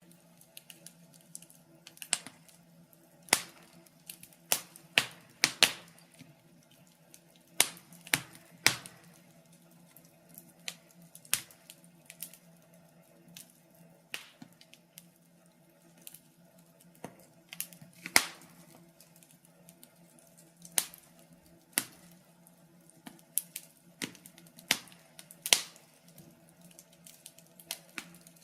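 Wood logs burning in a fireplace, crackling with irregular sharp pops and snaps, some much louder than others, over a faint steady low background.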